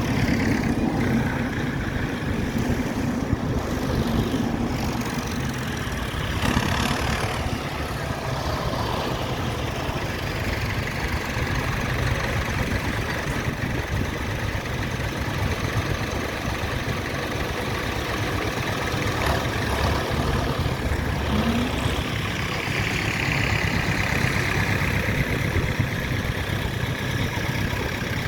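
Tractor engines running steadily, with a swell of louder noise about six seconds in and again for a few seconds near the end.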